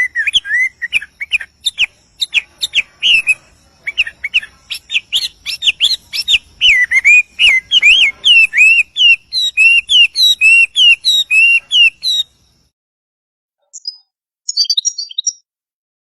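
A small songbird singing a long, fast run of whistled notes that slide up and down, stopping about twelve seconds in, then a short burst of song near the end.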